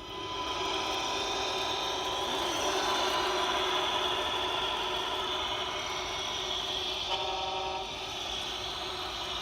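Simulated diesel truck engine sound from the RC Mercedes Actros truck's electronic sound unit, running steadily, with a short horn toot about seven seconds in.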